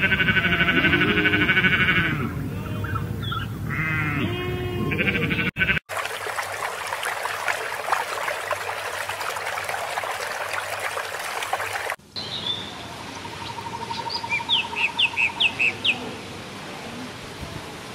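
Sheep bleating over a steady high chirring; then water splashing and hissing, as from a crowd of koi at the surface; then birds chirping in short, quick rising notes.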